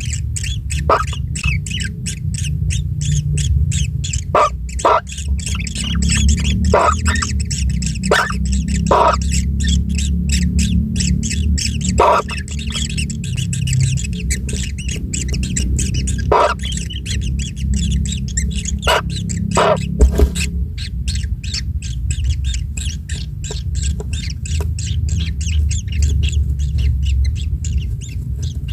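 Kingfisher nestlings in an earthen nest burrow calling continuously with rapid, harsh, squawking notes, the begging calls of hungry chicks, over a steady low rumble.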